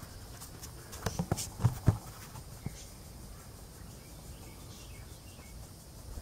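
A handful of short metal clinks and knocks from hand tools, about a second in, as the bolts on an airboat's propeller hub are worked loose.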